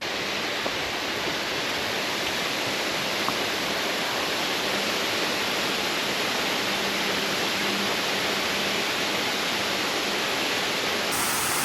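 Waterfall rushing: a loud, steady, even roar of falling water, with a slight change in tone near the end.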